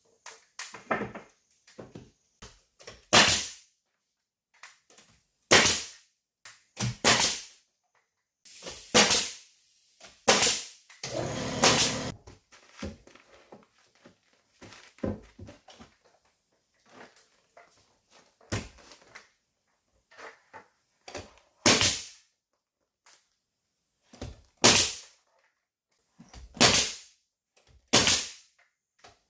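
Nail gun firing single shots every few seconds, fastening wood furring strips to the ceiling, with softer knocks of handling lumber between the shots and a few seconds of rougher noise about nine seconds in.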